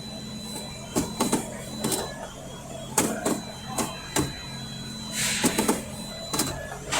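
Irregular sharp clicks and knocks over a steady low hum, with a short burst of hiss near the end.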